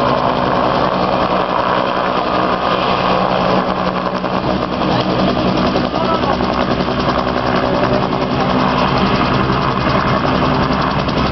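Helicopter running steadily close by: an even engine and rotor drone with a fast, regular chop from the blades.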